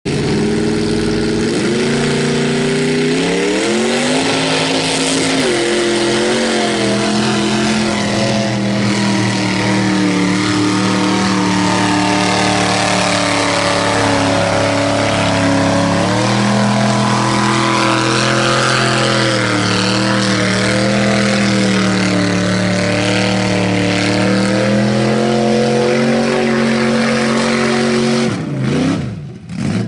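Mega mud truck's engine at full throttle. The revs climb over the first few seconds, hold high with small rises and dips, then drop off near the end.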